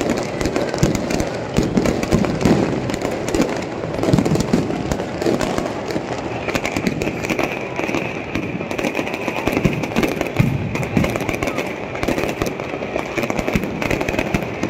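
Fireworks display: dense, continuous crackling and popping of firecrackers, with a steady high tone joining about six and a half seconds in.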